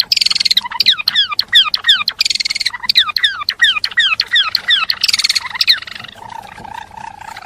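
Gelatik belong songbird singing a fast, loud song: a quick series of falling whistled notes, about four a second, broken three times by harsh buzzy bursts. About six seconds in, the song changes to a lower wavering note that fades.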